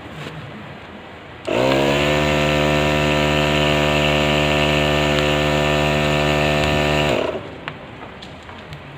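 A motor-driven power tool starts, quickly spins up to speed, runs steadily for about five and a half seconds, then stops.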